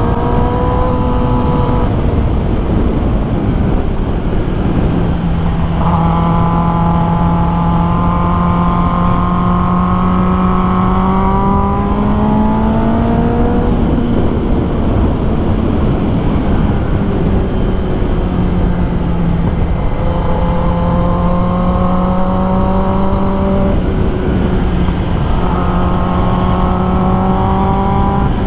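Kawasaki ZX10R's inline-four engine running under load on the road, its pitch climbing slowly and then dropping back several times at gear changes, over a steady rush of wind noise.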